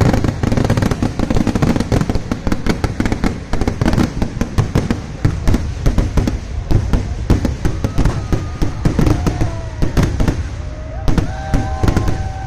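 Festival firecrackers going off in a rapid, continuous volley of loud bangs and crackles with no break.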